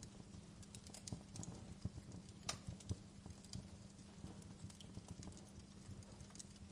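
Wood fire crackling: faint, irregular pops and snaps over a low rumble, with one sharper pop about two and a half seconds in.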